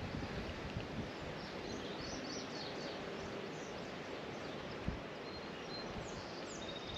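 Steady outdoor background noise with a few faint bird chirps, and one soft thump about five seconds in.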